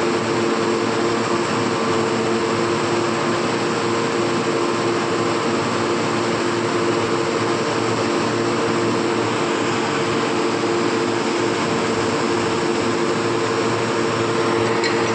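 Steady drone of heavy machinery: an even rush of noise with a constant low hum running through it, unchanging throughout.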